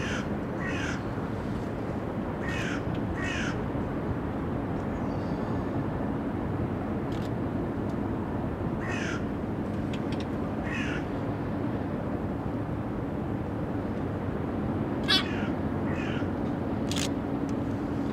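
Birds calling: short calls that fall in pitch, mostly in pairs, a few seconds apart, over a steady low hum.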